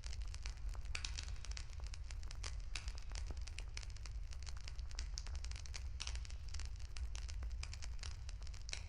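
Wood fire crackling with many sharp, irregular pops, over a steady low rumble.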